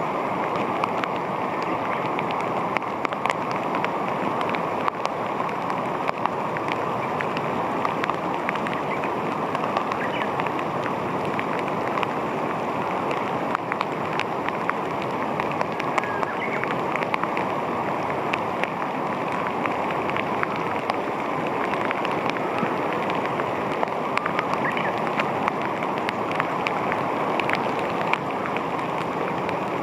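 Steady rushing noise of running water, with many small ticks and splashes scattered through it.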